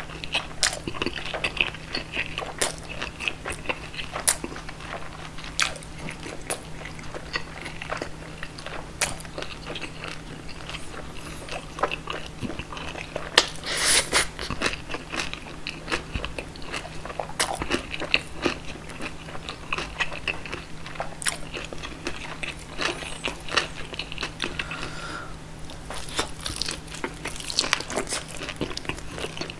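Close-up chewing and biting of roast pork knuckle (schweinshaxe): many sharp, wet mouth clicks, with a louder bite about 14 seconds in and another cluster of bites near the end.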